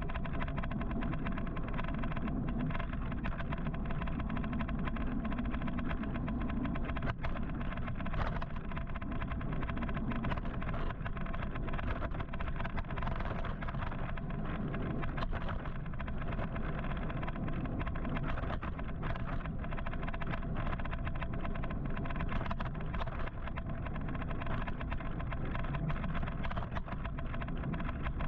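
Steady city road noise heard from a moving electric motorcycle: a low rumble of tyres, wind and surrounding traffic, with a faint steady hum.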